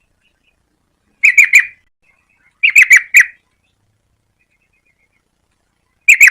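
Yellow-vented bulbul singing: three short phrases of a few quick, bright notes each, separated by pauses.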